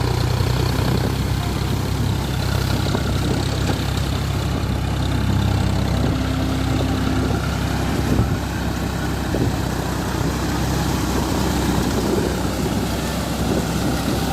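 John Deere 42 hp tractor's diesel engine running steadily under load, driving a rotavator that churns through a wet, puddled paddy field.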